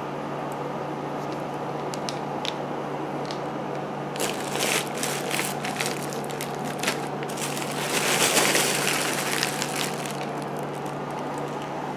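Packing material being handled and crinkled in bursts, loudest about four to seven seconds in and again around eight to nine seconds, with scattered light clicks and knocks. A steady low hum runs underneath.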